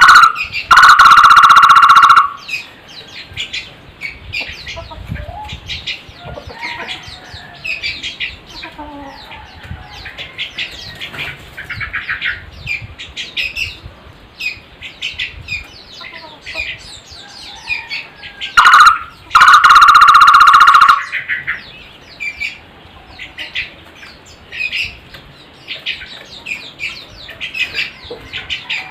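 Barbet (takur) giving two loud, fast trilling calls, one near the start and one about nineteen seconds in, each lasting a second and a half to two seconds. Between them, many faint short chirps from other birds.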